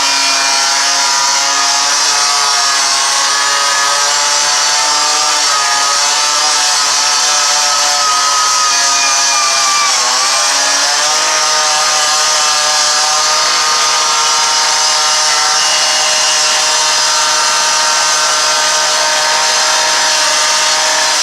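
Gas-powered handheld power saw running at high revs, loud and steady, its pitch sagging briefly about halfway through and then recovering, as when a saw bites under load. Firefighters are forcing their way into a burning garbage truck.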